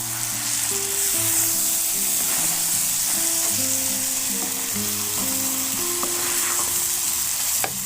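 Beef innards sizzling in a hot pan as they are stirred, a steady frying hiss, with soft background music of held notes underneath.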